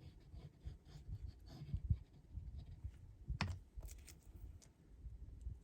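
Paper strips being handled and pressed onto a card on a desk: scattered light taps, rustles and soft knocks, with a sharper click about three and a half seconds in.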